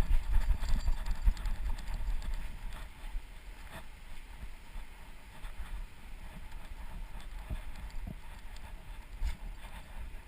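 Low thudding and jostling picked up by a GoPro on a running dog's Fetch harness: the dog's footfalls and the camera shaking. It is heaviest in the first few seconds, then lighter, with scattered clicks.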